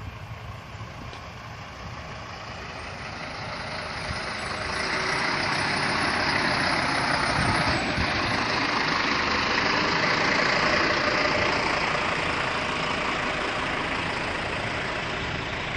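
Diesel engine of a Regiosprinter railcar running under load, its noise swelling over the first few seconds and then holding steady, as heard aboard the train pulling away.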